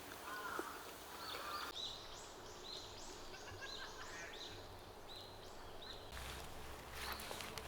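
Small forest birds singing faintly: a rapid run of short, high, arched chirps, about three a second, with some lower chirping in the first second or so.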